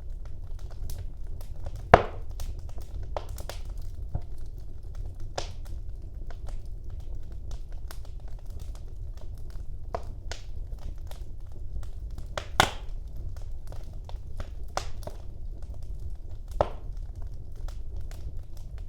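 Wood fire burning in a fireplace: a low steady rumble of flames with scattered sharp crackles and pops, the loudest about two seconds in, near two-thirds of the way through, and near the end.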